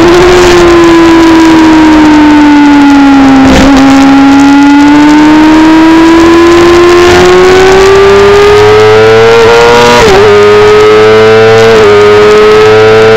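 Motorcycle engine at high revs, loud, recorded onboard during a track lap. Its pitch falls as the bike slows for a corner about a third of the way through, then climbs steadily under acceleration, with two quick drops near the end as it shifts up.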